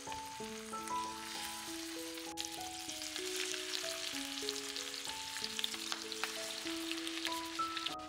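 Food frying in a pan: a steady crackling sizzle that grows louder after about two seconds. A simple melody of background music plays under it.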